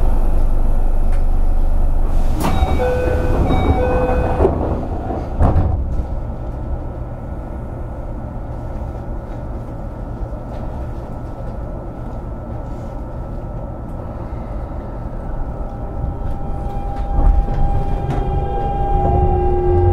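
Keio 8000 series train at a station stop: a short electronic chime of several notes, then the sliding doors close with a thump, then a steady quiet hum while standing. Near the end the traction motors begin to whine, rising in pitch, as the train starts to pull away.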